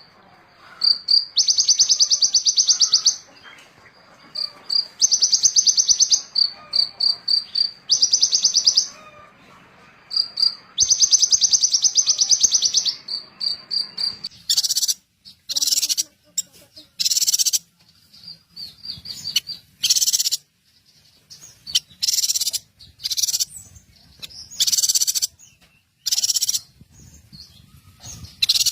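Recorded songbird song: for the first half, buzzy high trills of one to two seconds alternate with runs of short quick pips; about halfway through it changes to harsh, scratchy calls in bursts of about a second with short gaps between.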